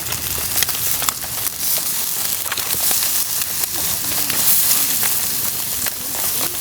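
Food sizzling in a pan over a campfire: a steady frying hiss dotted with many sharp crackles and pops.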